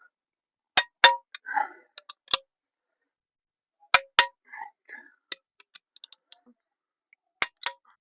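Click-type torque wrench breaking over as crankcase bolts reach 23 Nm: three sharp metallic double clacks with a brief ring, about three seconds apart. Softer clinks of the socket and tool are heard between them.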